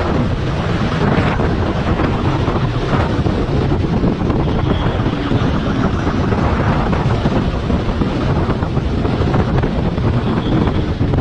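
Heavy, steady wind rush buffeting the microphone of a camera on a motorcycle riding fast, with vehicle noise mixed in.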